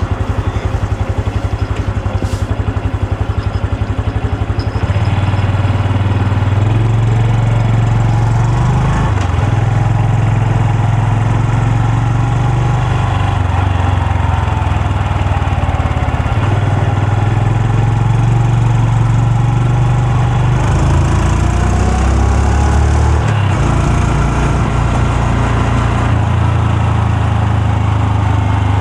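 Honda Super Cub C125's single-cylinder four-stroke engine idling with an even beat, then louder about five seconds in as the bike moves off. Its engine speed then rises and falls as it rides.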